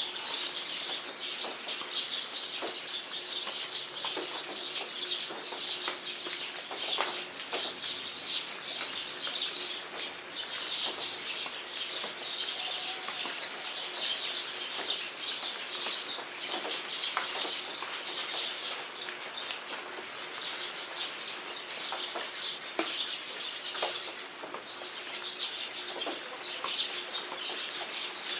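Rain and bird ambience: a dense, continuous chorus of small birds chirping, with scattered drops pattering and tapping throughout.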